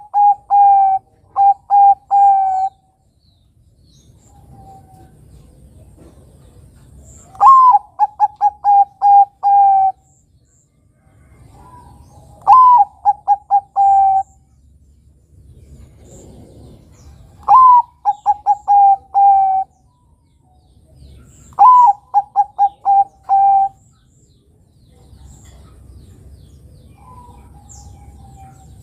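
Zebra dove (Bangkok-type perkutut) singing its cooing song. Each phrase opens with a higher rising-and-falling note and runs into a quick string of short, even coos. The phrase comes back about every four to five seconds, four full phrases after the end of one at the start.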